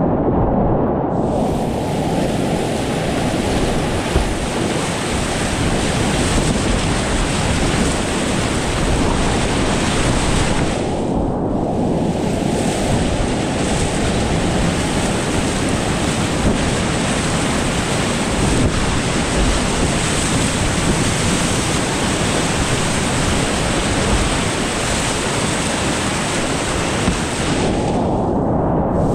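Whitewater rapids rushing: a steady, loud hiss of fast-moving river water, heard close up. The upper hiss dulls for a moment near the start, again about eleven seconds in, and near the end.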